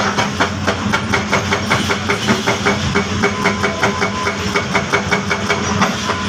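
Heavy machinery running, with a rapid, regular knocking of about four to five knocks a second over a steady engine hum.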